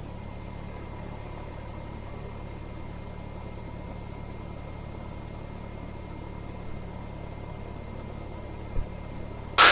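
Cessna 172R's four-cylinder Lycoming engine idling steadily just after starting. A brief loud burst comes near the end.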